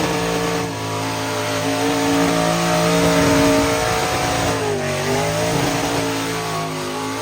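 Mega truck engine held at high revs, its pitch dipping briefly about five seconds in and climbing back.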